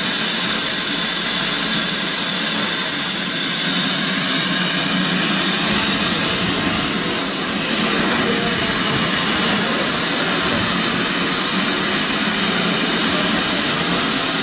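Railway locomotive at a station platform, with a loud, steady hissing rush and an engine running underneath.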